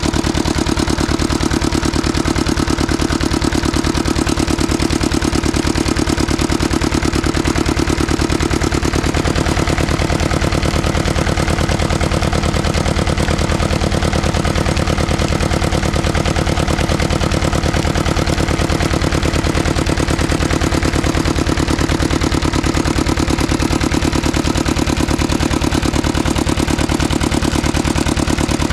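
Old 35 hp stationary diesel engine on a tubewell running steadily, with an even knocking beat of its firing strokes.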